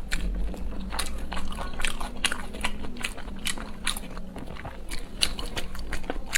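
Close-miked mukbang eating: a person bites and chews, with irregular crisp clicks and crunches several times a second over a low steady hum.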